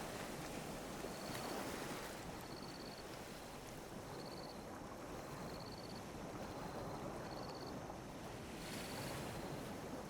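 Gentle ocean waves lapping on a beach: a soft, steady wash of surf that swells slightly about a second in and again near the end. A faint high chirp repeats about every second and a half.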